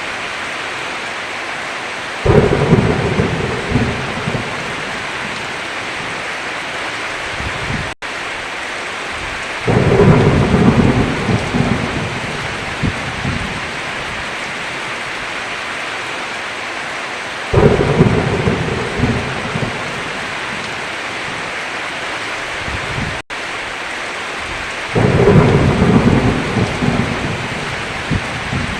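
Steady heavy rain with four rolls of thunder about every seven to eight seconds, each starting suddenly and rumbling for a few seconds. The rain cuts out for an instant twice.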